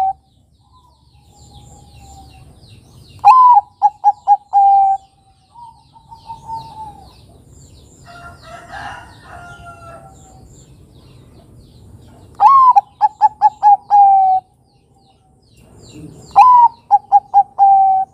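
Zebra dove (Bangkok perkutut) singing its cooing song three times. Each phrase is a rising-then-falling opening note, a quick string of short notes and a held final note, with long pauses between phrases.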